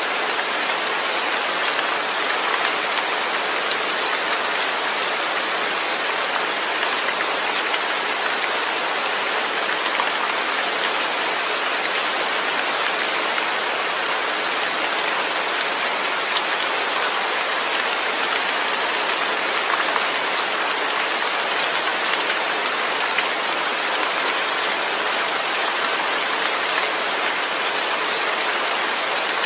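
Steady rain falling, an even hiss of many drops that holds the same level throughout, with no thunder.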